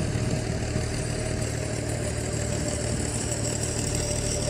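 An engine idling steadily nearby, a low even hum with a faint steady whine above it.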